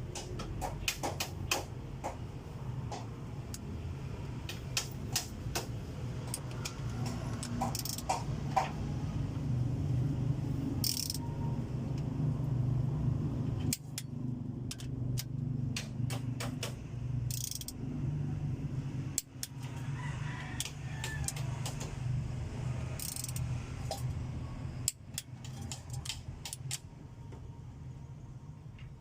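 Click-type torque wrench tightening the bolts on an Isuzu 4BC2 diesel head set to 60: sharp, irregular clicks and metal clinks of the wrench and tools. Each wrench click signals that a bolt has reached torque. A steady low hum runs underneath.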